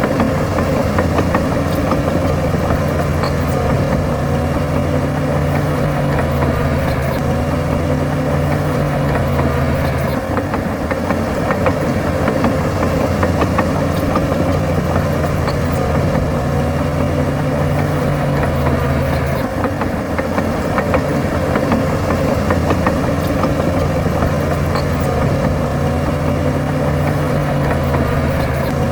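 Bulldozer's diesel engine running steadily under work, its note shifting about ten seconds in and again near twenty seconds, with faint clanking throughout.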